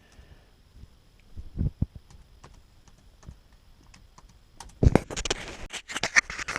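Typing on a laptop keyboard: a few scattered key taps and two dull knocks under two seconds in, then a quick run of keystrokes near the end.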